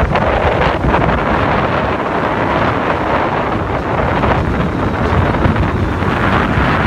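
Strong wind buffeting the microphone, a loud steady rushing with gusts.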